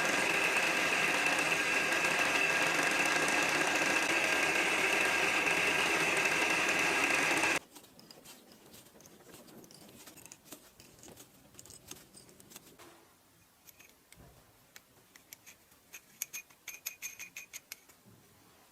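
An electric power tool runs steadily with a whine for about eight seconds, then cuts off suddenly. Faint clicks and small metal rattles from handling parts follow, with a quick run of ticks near the end.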